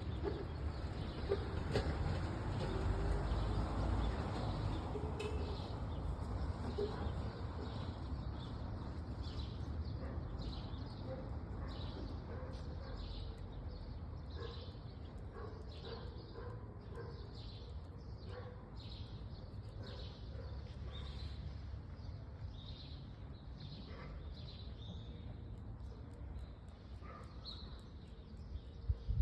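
Small birds chirping over and over, short high chirps coming thick and fast, over a steady low rumble.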